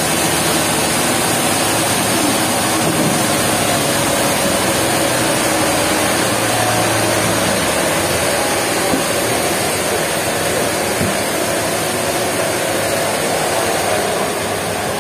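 Sawmill machinery running with a steady, loud mechanical noise.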